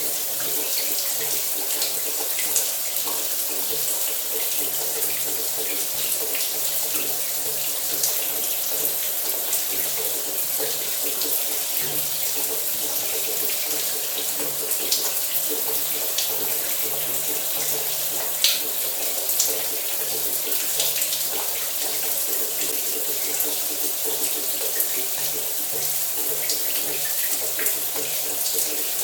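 Shower running steadily, a dense hiss of water spray with scattered splashes and drops.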